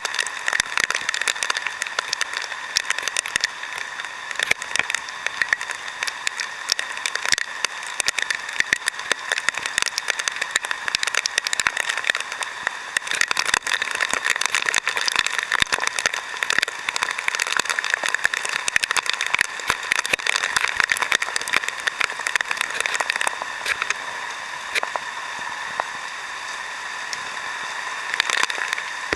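Heavy typhoon rain pouring down, a steady wash of noise dense with rapid, irregular drop impacts.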